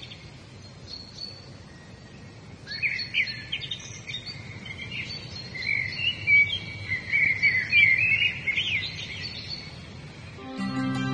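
Birds chirping and singing in quick, gliding calls over a light outdoor hiss, busiest from about three seconds in; near the end a slow music intro with held tones comes in.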